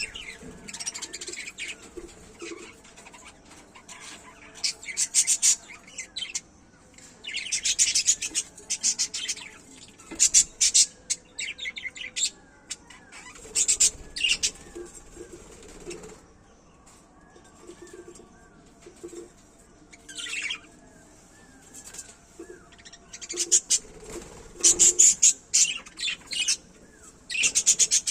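Pet lovebirds chirping: bursts of shrill, rapid chirps every few seconds, with softer twittering between them.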